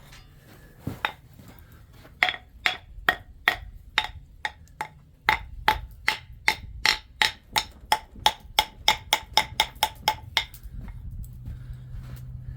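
Hammer blows on pure silver being forged into a ring: a steady run of sharp strikes, about three a second, each with a short metallic ring. There is a brief break about five seconds in, and the hammering stops near the end.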